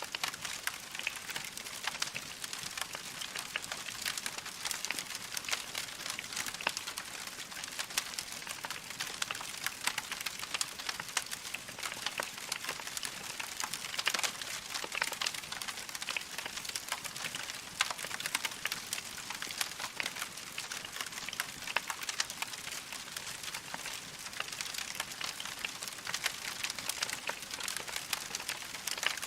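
Logs burning in a fireplace, crackling steadily with a dense stream of small sharp pops.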